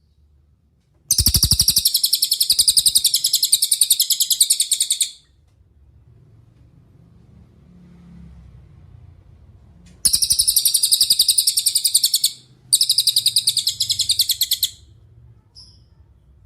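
Cililin songbird singing three loud, very fast, rattling high trills: one of about four seconds, then, about ten seconds in, two shorter ones back to back.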